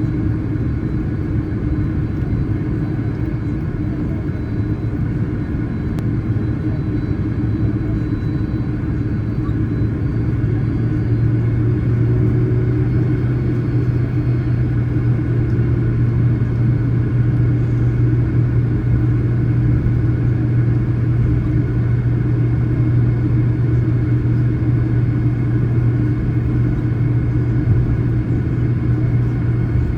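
Jet airliner cabin noise with the engines running: a steady low rumble and engine hum that grows a little louder about ten seconds in, typical of taxiing before takeoff.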